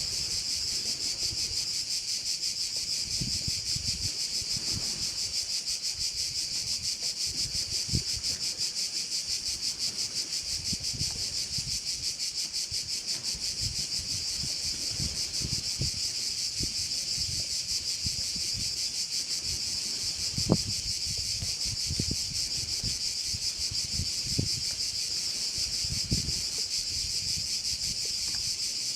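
Dense chorus of crickets, a continuous high-pitched chirring with a fine rapid pulse. Soft low thumps of wind on the microphone come and go underneath, the sharpest about two-thirds of the way through.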